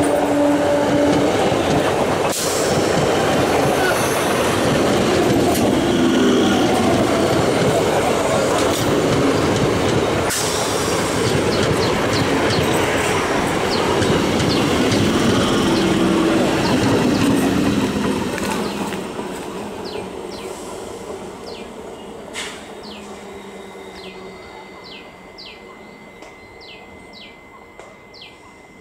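Electric multiple-unit local train running past close by on the track, its horn ending about a second in. The train noise stays loud, then fades steadily from about eighteen seconds in as the train moves away.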